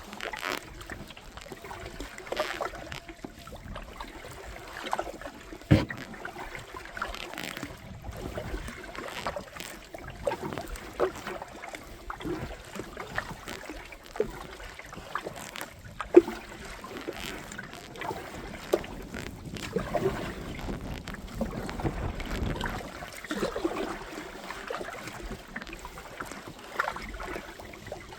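Water lapping and splashing around a kayak on a river, with scattered sharp knocks against the boat, the loudest about six and sixteen seconds in.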